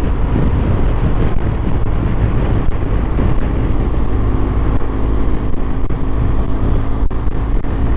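BMW R1200 GS boxer-twin engine running steadily while the motorcycle is ridden at road speed, with wind and road rush over it.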